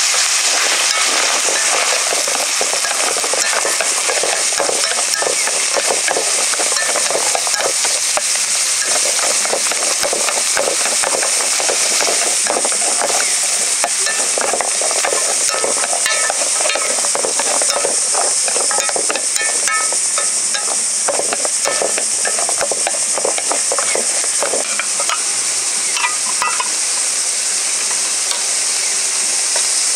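Food sizzling as it fries in a pan while a utensil stirs and scrapes it, in a steady stream of scraping and clicking strokes.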